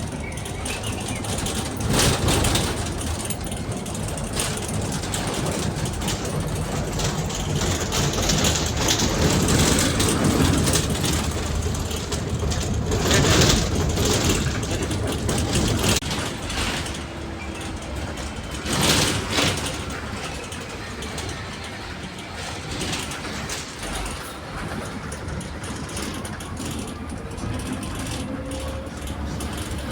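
Steady engine and road noise of a moving vehicle, heard from inside, with a few louder bumps or rattles about two, thirteen and nineteen seconds in.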